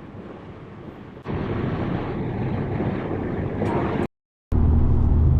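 Car's road and wind noise at highway speed, heard in short edited clips: it jumps louder about a second in, cuts out briefly around four seconds, then comes back with a steady low drone.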